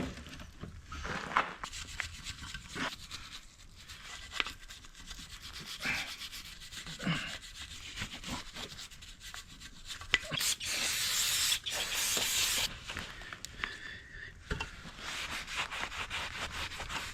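Hand cleaning of clutch parts: rubbing and wiping with small clicks of handling metal pieces. About ten seconds in comes a steady hiss lasting a couple of seconds, with a weaker rubbing hiss near the end.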